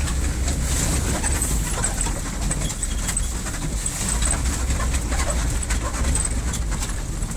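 A 1981 Chevrolet pickup driving, heard from inside the cab: a steady low rumble of engine and road noise.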